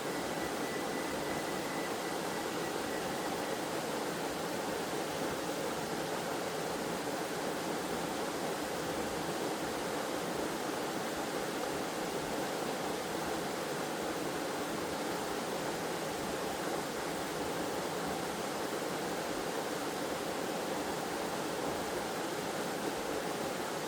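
Waterfall in a forest: water cascading and rushing in a steady, even roar with no breaks. A faint thin high tone sounds over it for the first few seconds.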